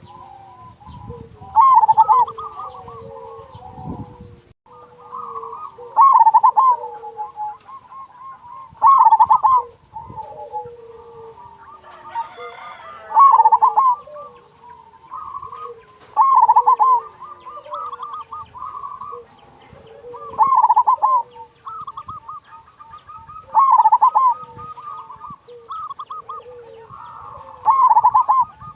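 Zebra doves (perkutut) singing: a loud phrase of quick cooing notes every three to four seconds, with softer coos between the phrases.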